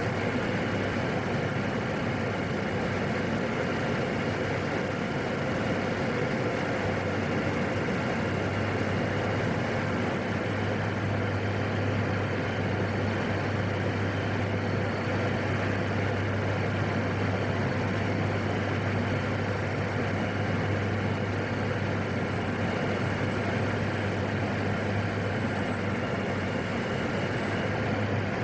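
Steady drone of a PAC 750XL's turboprop engine and propeller in flight, heard in the cockpit, with a constant low hum and a few faint steady tones above it.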